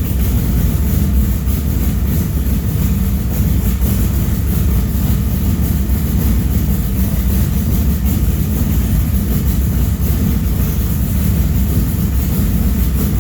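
LS3 stroker V8 in a Tatum SandDemon sand car idling steadily in the first minute after a true cold start, running on a freshly flashed base tune without stalling.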